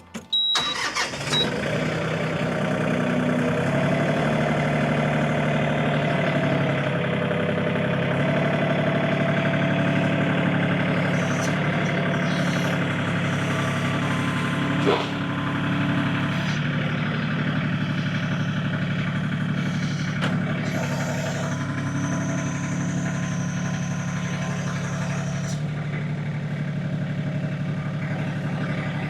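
LS MT226 compact tractor's diesel engine running steadily at about 1,400 rpm while its front loader lifts a roughly 1,878 lb pallet load. One sharp click comes about halfway through.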